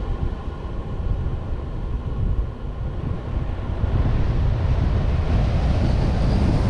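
Vehicle driving, heard through a suction-cup-mounted action camera: a steady rumble of road and engine noise with wind buffeting the microphone. It gets louder and hissier about four seconds in.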